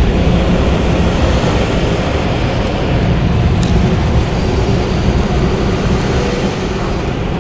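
Automatic car wash machinery running, heard from inside the car: a loud, steady rush of air over a deep rumble.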